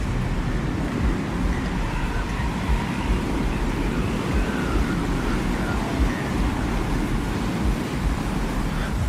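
Designed desert-wind ambience: a steady, deep rumbling wind with a dense hiss. Faint high wavering tones drift in the background.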